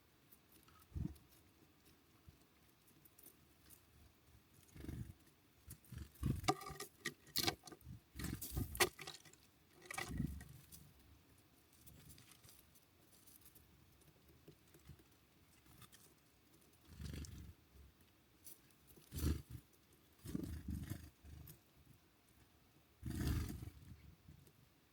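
Small birds at a feeder close to the microphone: irregular knocks, scrabbling and low thumps from landing, hopping and pecking, busiest early in the middle and again in a few clusters near the end.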